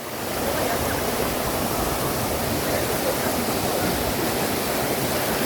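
Waterfall cascading into a deep plunge pool: a steady, full rush of falling water. It swells in the first half-second, then holds even.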